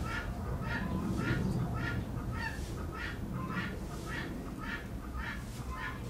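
A bird calling over and over in short notes, about two a second, evenly spaced, over a low background rumble.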